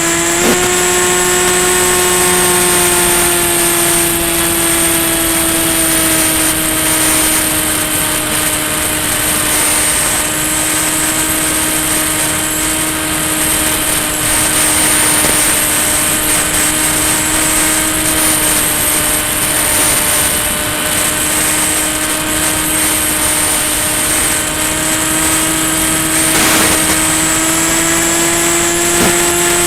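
Electric motor and pusher propeller of a Ranger EX RC plane in flight, a steady drone with a high whine on top and rushing air. Its pitch drops a little after the first few seconds and rises again near the end as the throttle changes.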